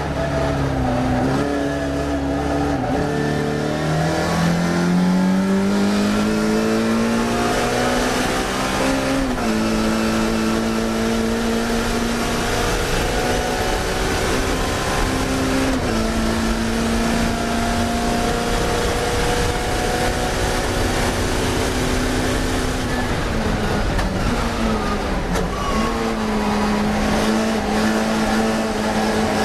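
Classic Mini race car's four-cylinder engine under hard acceleration, its pitch climbing and stepping down with each gear change, then dropping for a few seconds about twenty-four seconds in before pulling up again.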